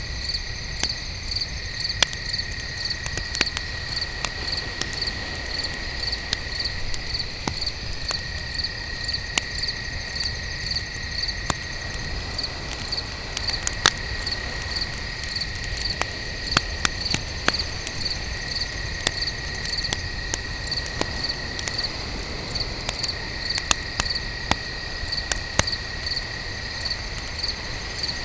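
Crickets chirping in a regular pulsing rhythm, with a steadier insect trill that breaks off and resumes, over a campfire crackling with scattered sharp pops.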